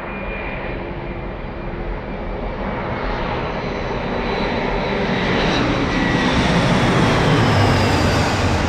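Jet airliner's engines growing steadily louder as it approaches and passes close by, a high whine in its noise sliding down in pitch.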